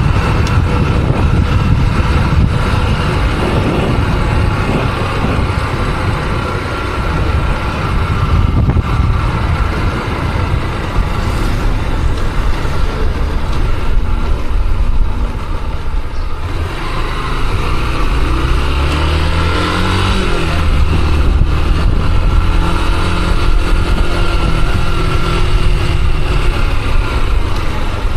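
Motorcycle riding through town traffic, its engine running under a heavy rush of wind on the microphone. About two-thirds of the way in, the engine note climbs and drops as it accelerates.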